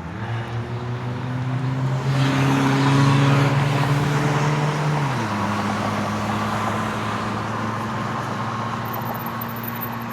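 A motor vehicle passing close by on the road: a steady engine hum with tyre noise that swells to its loudest about three seconds in, then the hum drops in pitch about five seconds in as it goes past and carries on more quietly.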